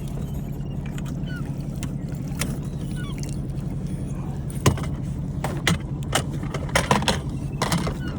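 A boat's engine running steadily at a low hum, with scattered clicks and knocks from on board, the sharpest a bit under five seconds in and several more in the last three seconds.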